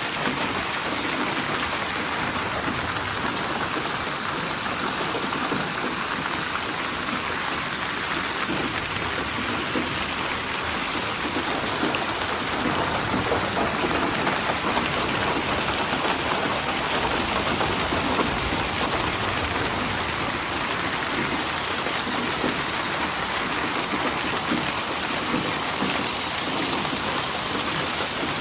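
Steady rain falling, an even, dense hiss of drops on surfaces with no change in intensity.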